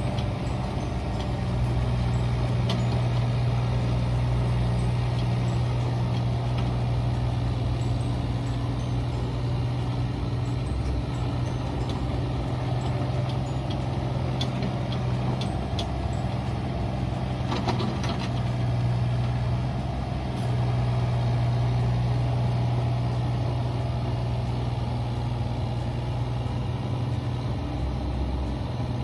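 Mini excavator's diesel engine running steadily under work, swelling a little louder twice. A few light clicks and knocks come about halfway through.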